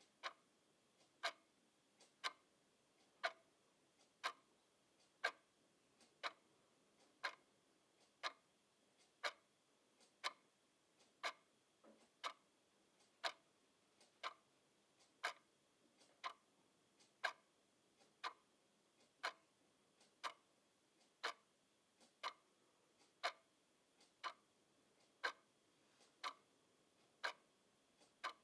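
Clock ticking at a steady even rhythm, a sharp tick about once a second with fainter ticks in between.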